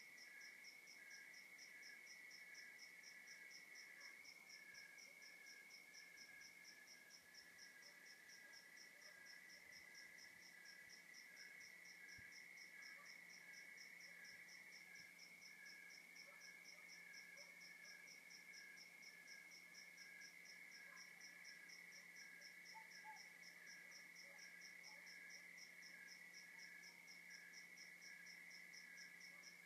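Faint chorus of night insects, chiefly crickets: one steady unbroken trill with evenly repeating chirps layered over it, some slower and some faster and higher.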